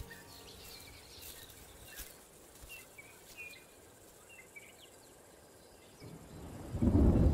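Faint bush ambience of short bird chirps and insect clicks, then a low rumble of thunder that starts about six seconds in and grows loud near the end.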